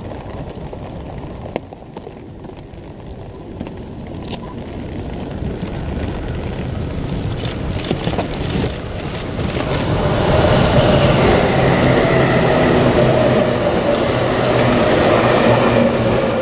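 JR 651 series electric express train approaching and passing close by, the rumble of its wheels on the rails growing louder from about four seconds in and staying loud as the cars go past, with a steady hum over it.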